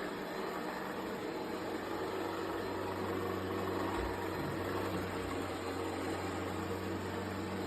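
A robot vacuum's motor running with a steady hum.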